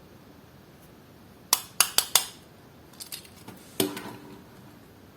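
Small metal diecast toy cars clicking and clinking as they are handled on a hard surface: four quick sharp clicks about a second and a half in, a few lighter taps, then a louder clink with a short ring near the end.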